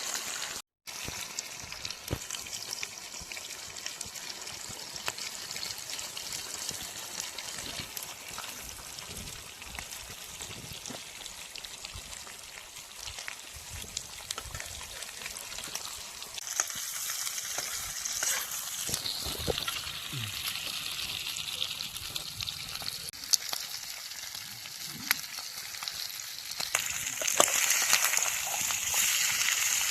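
Pork curry frying in a pan: a steady sizzle with small clicks and scrapes of stirring. The sizzle grows louder about halfway through and again near the end.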